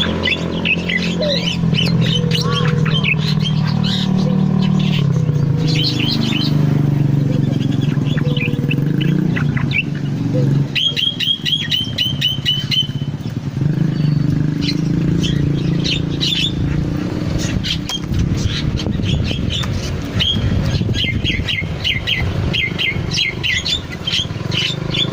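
Cucak loreng songbird singing busily: strings of short chirps and whistled notes, with a quick run of rapidly repeated notes about halfway through. A steady low engine-like rumble runs underneath.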